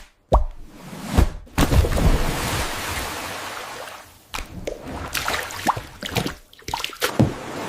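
Wet, squishy food ASMR sounds, made by AI: sticky squelches and clicks, with a steady watery hiss from about one and a half to four seconds in.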